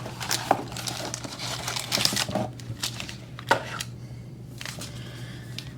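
Foil-wrapped trading-card booster packs and their packaging crinkling and rustling as they are handled, with a run of sharp crackles over the first three and a half seconds and fewer after. A steady low hum runs underneath.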